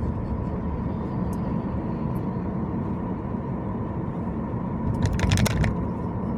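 Steady low rumble of a car driving on the road, with a brief louder rush of noise about five seconds in.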